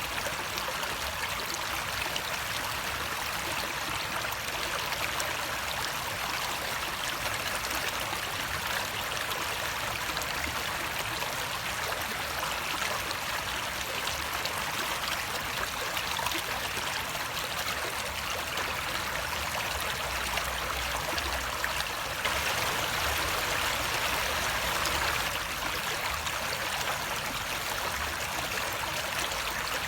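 Running water flowing steadily, like a stream, with a continuous rushing trickle that swells slightly about two-thirds of the way through.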